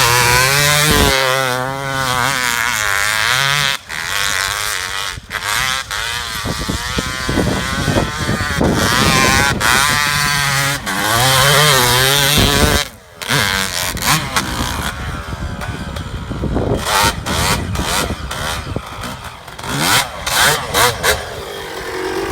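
Suzuki RM250 two-stroke dirt bike engine ridden hard, its pitch climbing and falling as it revs through the gears, cutting out sharply about four seconds in and again around halfway. In the later part the throttle comes in short, choppy bursts.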